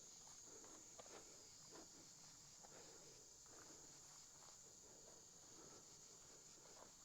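Near silence: faint, steady high-pitched insect trilling, with a few soft footsteps.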